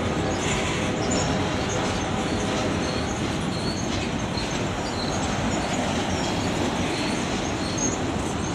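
Freight cars of a long CSX train rolling past slowly: a steady rumble of wheels on rail, with brief faint wheel squeals now and then.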